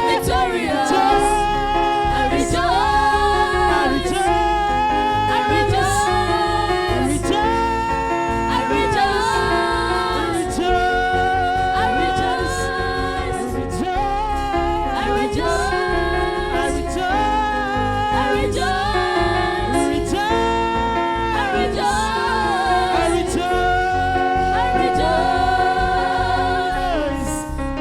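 Live gospel singing with band accompaniment: sung vocal lines over bass and a steady beat.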